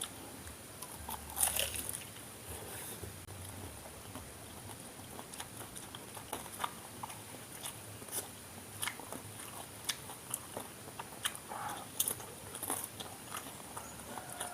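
Close-up biting and chewing of crispy Indonesian fried snacks (gorengan such as fried tofu and tempeh): irregular crunches and crackles as the batter breaks, with the loudest bite about a second and a half in.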